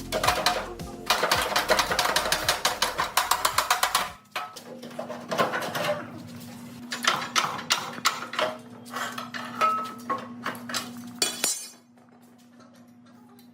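Metal parts and tools clinking and knocking, as in hands-on work on a rusty machine. A fast, dense run of clicks comes about a second in and lasts about three seconds, followed by scattered single clinks and taps over a faint steady hum, which quieten near the end.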